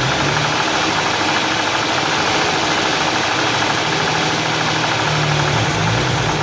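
Hyundai V6 engine running at idle, steady, with a fast, even ticking over the engine note.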